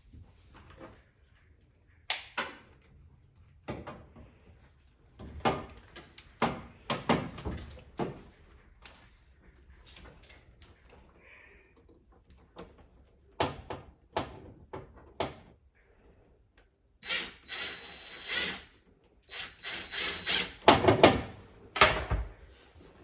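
Irregular knocks, clicks and scraping from hand work on a washing machine during a door-seal replacement, with a longer rustling, scraping stretch in the second half and the loudest knocks near the end.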